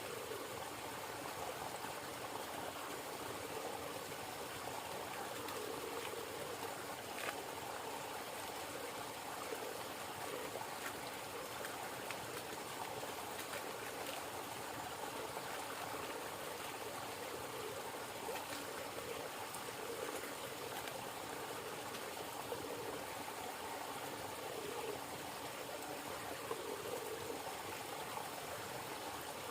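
River water flowing steadily, with a few faint clicks.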